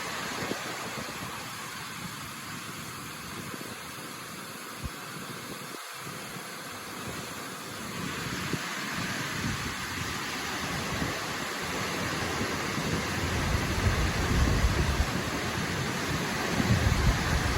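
Waterfall rushing in a steady hiss of falling water, with irregular low rumbling that grows stronger in the last few seconds.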